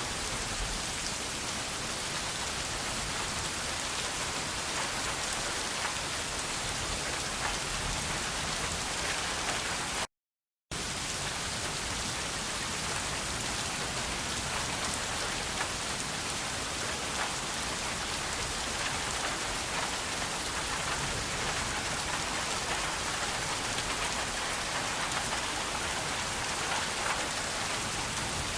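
Steady rain falling on a surface, an even hiss with scattered small drop ticks. It cuts out to complete silence for about half a second roughly ten seconds in, then resumes unchanged.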